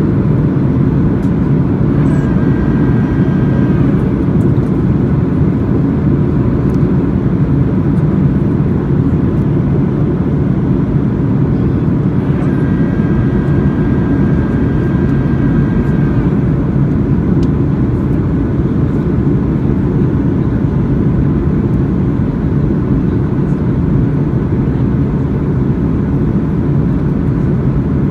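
Boeing 737 in flight: a steady, loud rumble of engine and airflow noise with a faint constant whine above it.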